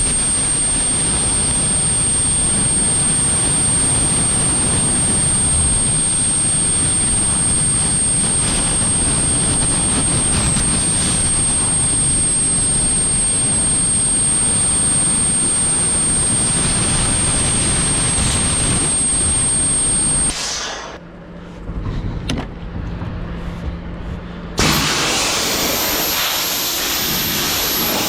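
Truck-wash drying blower running: a loud, steady rush of air with a thin high whistle. About twenty seconds in it drops away to a quieter low hum for about four seconds, then the loud rush of air returns.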